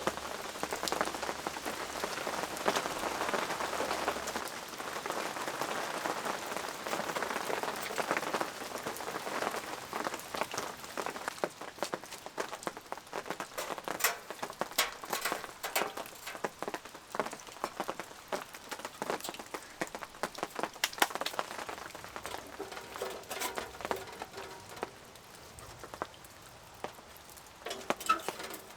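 Steady rain pattering on a surface. In the second half the wash of rain thins and single heavy drops tick out more distinctly.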